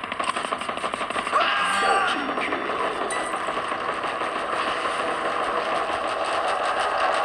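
Helicopter rotor beating in a fast, even pulse, with a steady whine underneath.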